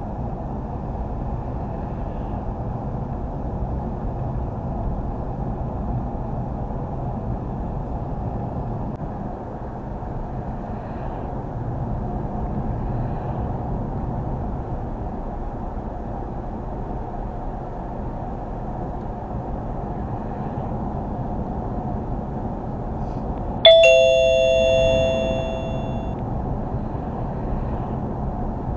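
Steady road and engine noise inside a moving car's cabin. About 24 seconds in, a single bell-like chime rings out, the loudest sound here, and fades away over about two seconds.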